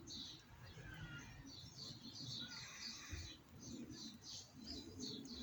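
Small birds chirping and twittering faintly, with many quick high calls in rapid runs.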